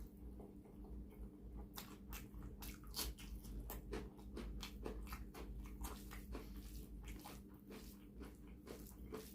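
Close-miked chewing and mouth sounds of a person eating: a quick, irregular run of wet clicks and smacks.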